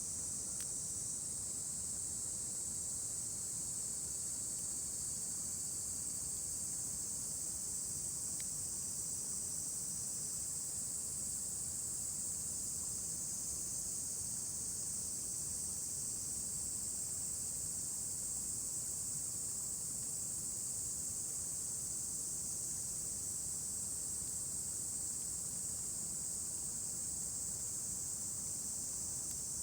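Steady, high-pitched chorus of insects on a summer evening, unbroken throughout, with one or two faint ticks.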